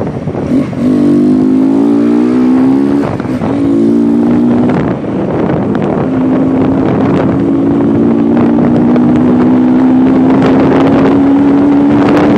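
Motorcycle engine revved up and held at high revs: it climbs about a second in, drops off briefly twice, then holds a long steady note from about six seconds that slowly rises in pitch. Wind noise on the microphone runs underneath.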